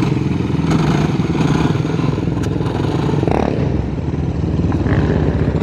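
Off-road vehicle engine running steadily near the microphone, with an even low pulse.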